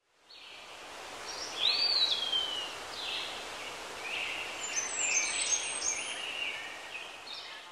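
Birds chirping and whistling over a steady outdoor hiss. About two seconds in there is one long whistle that rises and then falls, and later many short calls overlap.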